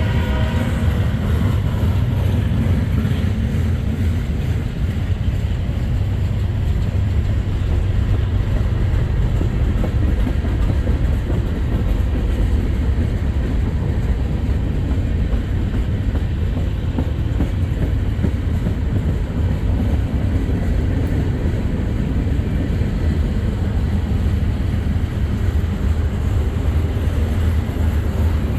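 Freight train passing close by: a steady, loud, low rumble of wheels and cars on the rails. The last of the locomotive horn fades away right at the start.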